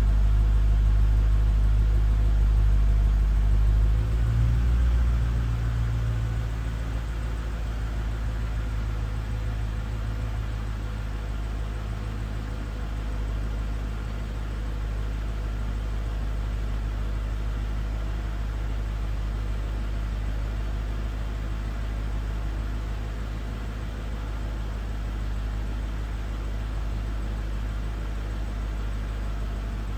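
2006 Mercedes-Benz CLK55 AMG's 5.4-litre V8 idling after a cold start. The steady low hum eases down about five seconds in and then holds even.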